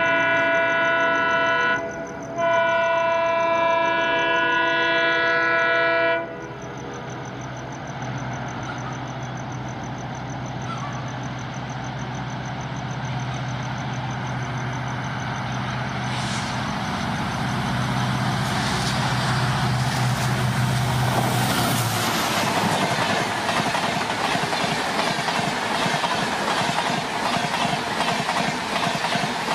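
Indian Railways express train with LHB coaches approaching at speed. The locomotive's horn sounds a long blast, briefly broken about two seconds in and ending about six seconds in. The train's rumble then builds as it nears, and from about two-thirds in the coaches rush past with a steady rattling clatter.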